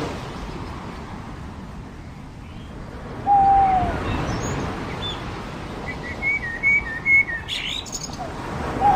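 Birds calling over a steady wash of surf. About three seconds in comes one loud call that slides downward, around six to seven seconds a quick run of short chirps ends in a rising note, and another call comes right at the end.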